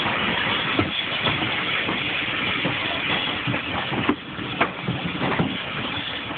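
Preserved train running along the line, heard from an open carriage window: a steady rumbling running noise with a few sharp knocks scattered through it, easing slightly about two-thirds of the way in.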